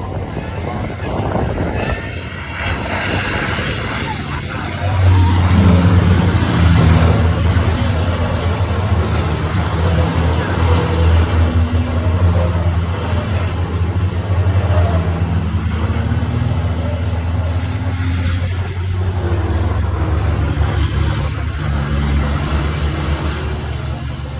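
Diesel race trucks running hard with a loud, low engine drone that comes in strongly about five seconds in and holds steady in pitch for most of the rest.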